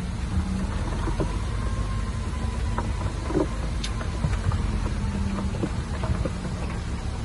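Diesel engine of heavy earthmoving machinery running steadily, with scattered clanks and knocks over it.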